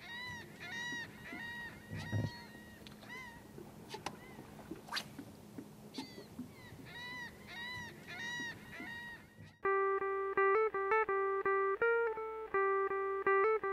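Repeated short bird calls in quick runs, each rising and falling in pitch, over a faint rushing background. About ten seconds in, louder plucked guitar music starts.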